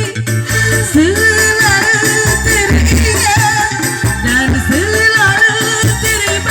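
A sung cover with instrumental backing: the vocal melody slides and bends in pitch over a steady bass line.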